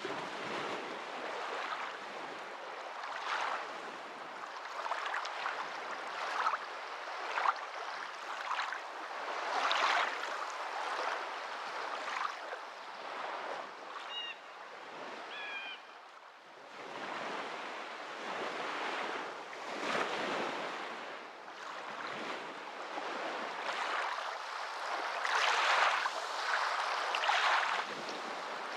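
Waves washing in and breaking, the water noise swelling and fading every few seconds. A few faint, short high chirps come about halfway through.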